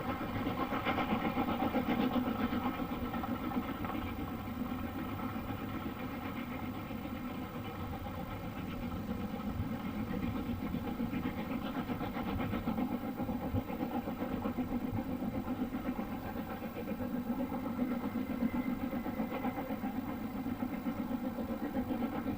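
A train's engine running steadily, a steady hum of several tones over a low rumble, with no marked change.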